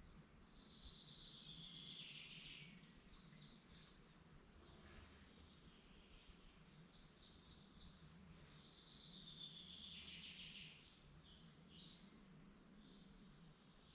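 A songbird sings the same short phrase twice, each a descending trill plus a run of quick high notes, faint over a steady low background rumble.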